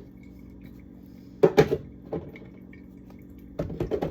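Knocks and clatter from handling a refrigerator's contents and drawers: two sharp knocks about a second and a half in, then a quick run of clattering knocks near the end, over a steady low hum.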